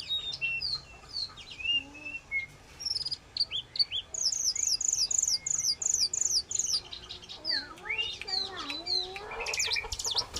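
Jongkangan songbird singing a varied song of chirps, twitters and whistles, with a run of quick falling whistled notes about six a second in the middle of the song.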